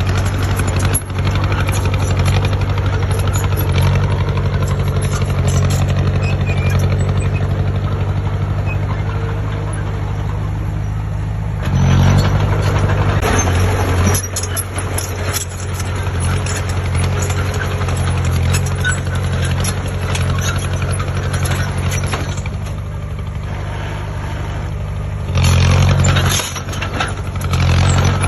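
Heavy diesel engine of earthmoving machinery running steadily, getting louder for a moment about twelve seconds in and again near the end.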